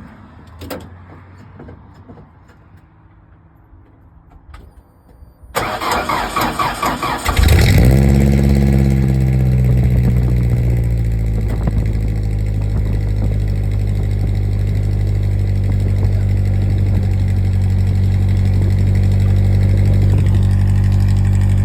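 Ford Ranger pickup starting: a few light clicks, then the starter cranks for about two seconds before the engine catches, revs briefly and settles into a steady idle through its new exhaust tip.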